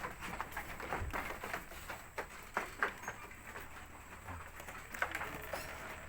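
Goats moving about their pen, with irregular knocks and clicks of their hooves several times a second.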